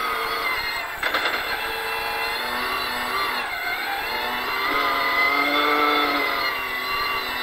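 Toyota Hilux rally raid car's engine heard from inside the cabin while driving hard on a dirt stage. The engine note drops briefly about a second in and again a little before the middle, then climbs back up.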